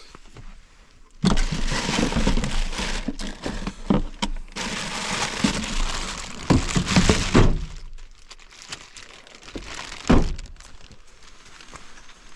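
Handling noise of gear and food being gathered: a dense stretch of rustling and crinkling with several knocks, then a single heavy thump about ten seconds in.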